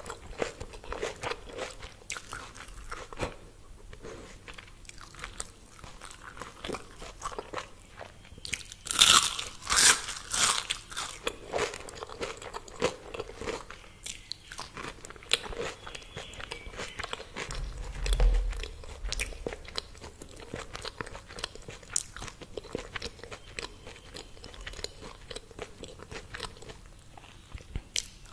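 Crispy fried food being bitten and chewed close to the microphone: crunchy crackles and wet chewing, with the loudest crunches about nine and ten seconds in. A dull low thump comes a little past halfway.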